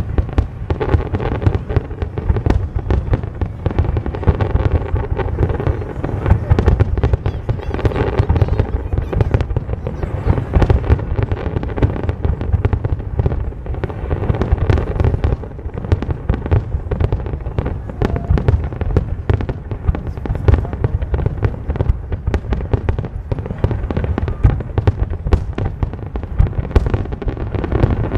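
Large aerial fireworks display: a dense, unbroken barrage of shell bursts, the bangs following one on another with no pause.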